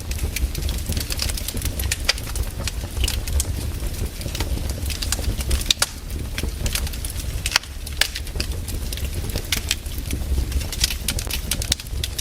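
Wood fire burning, with irregular crackles and sharp pops over a steady low rumble.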